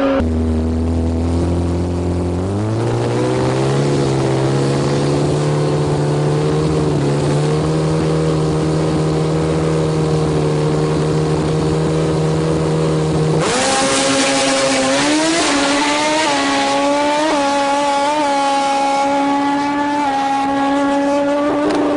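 Superbike engine running at high, nearly steady revs, its pitch climbing once and then holding. About halfway through it switches abruptly to a brighter engine note with small rises and dips in pitch.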